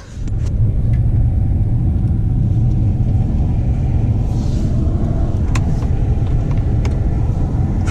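Car in motion heard from inside the cabin: a loud, steady low rumble of engine and road noise.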